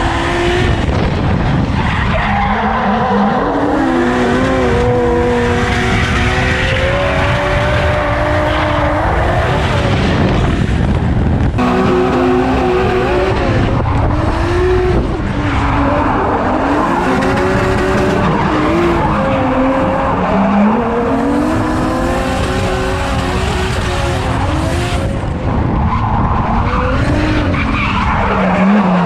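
Drift car's engine revving up and falling back again and again, with tyres skidding and squealing as the car slides through corners.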